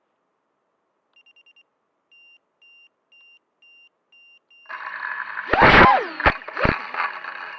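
High electronic beeps from an FPV racing quad's electronics: a quick run of four, then a steady beep about twice a second. Then its brushless motors and propellers spin up with a loud whine, rising to a loud burst with two sharp knocks.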